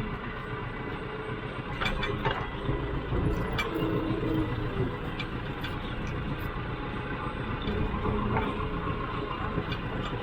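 Farm tractor engine running steadily, with a few short metallic knocks and clanks scattered through it.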